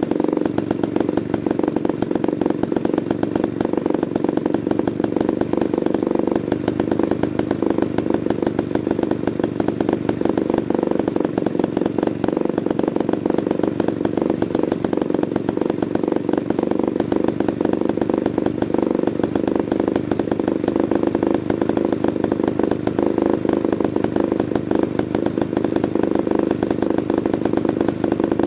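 Vintage Danarm MkI two-man chainsaw engine running steadily at an even speed, freshly restored and assembled.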